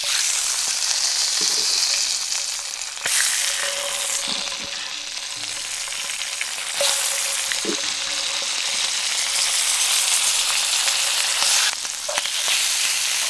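Small brook trout frying in bubbling fat in a frying pan over a campfire: a steady sizzle that shifts abruptly in level a few times.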